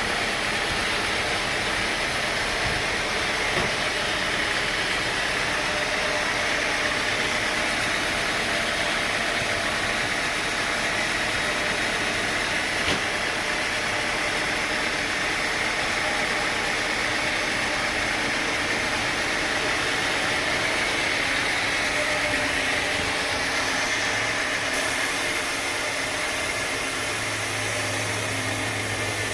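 Sawmill machinery running steadily: a dense, even mechanical noise with a hiss strongest in the upper-middle range. A low hum joins in near the end.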